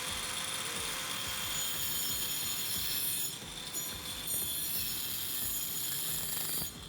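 Electric power saw running at full speed and cutting through an old hardwood bed-frame timber, its motor pitch steady under the cutting noise; the cutting eases for a moment about three seconds in and the cut finishes near the end.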